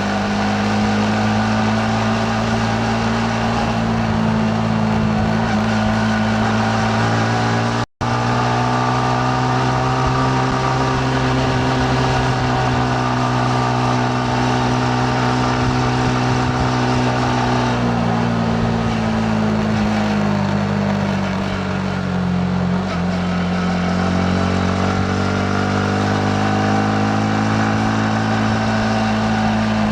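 Yamaha MT-15's single-cylinder engine running under way, with steady engine note and wind and road rush. The pitch eases down about eighteen seconds in, then climbs again. The sound cuts out for an instant about eight seconds in.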